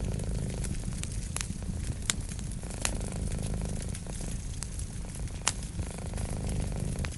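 A cat purring steadily alongside a crackling wood fire, with sharp pops from the fire several times, the loudest about two seconds in and again after five seconds.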